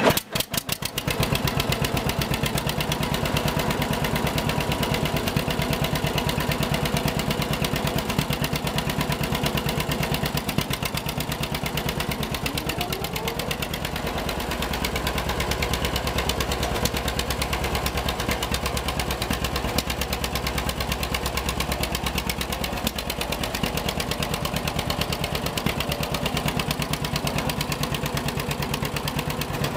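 John Deere 630's two-cylinder engine catching and settling, within about a second, into a steady idle made of evenly repeating firing pulses.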